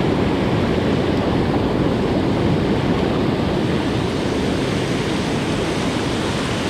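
River water rushing steadily below a dam, an even, unbroken noise.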